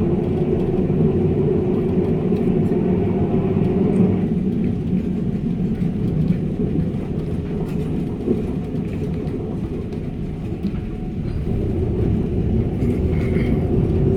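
Christchurch heritage tram running along its rails, heard from on board: a steady low rumble of wheels and running gear. A hum over it in the first four seconds gives way to a rougher rumble.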